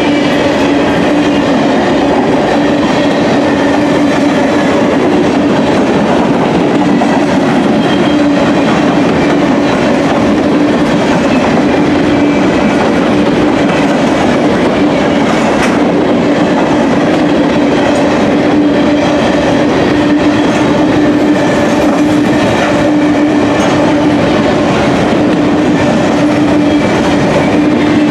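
Freight train of covered hopper cars rolling past close by: steel wheels on the rails make a loud, steady rumble with a constant droning tone running through it.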